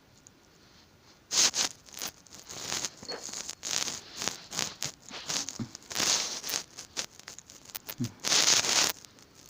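Irregular scuffling, scratching and rustling as a cat grapples with and claws at a hand, in short sharp bursts and a few longer scrapes starting about a second in.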